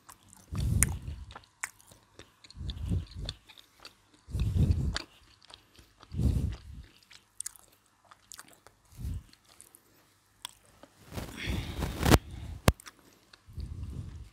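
Close-up chewing and biting of crispy fried chicken in several mouthfuls. In the last few seconds the crispy coating crackles and tears as the chicken is pulled apart by hand.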